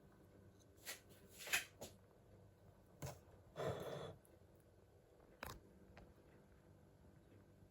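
Quiet handling noises: a few short taps and rustles, a longer scraping rustle about three and a half seconds in, and a sharp click about five and a half seconds in.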